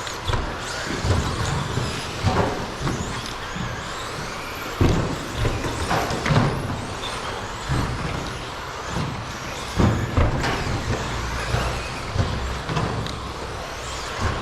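Electric 13.5-class RC stadium trucks racing on the track: the hum of their motors and tyres, with irregular sharp knocks from landings and hits about once a second.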